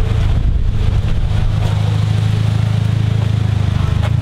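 A car engine idling steadily nearby, an even hum that does not change.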